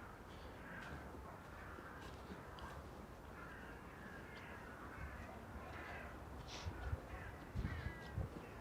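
A large flock of crows calling, many harsh caws overlapping without pause. A few low thuds near the end.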